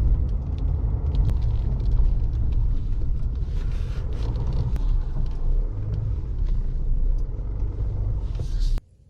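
Car on the move: a steady low rumble of engine and road noise, heard from inside the cabin, cutting off abruptly near the end.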